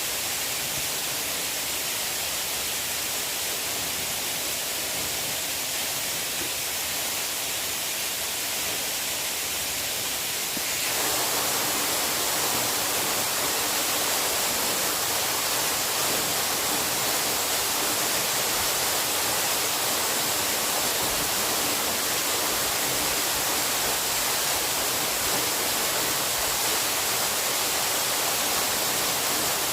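Steady rushing of water, which steps up abruptly to a louder, brighter rush about eleven seconds in.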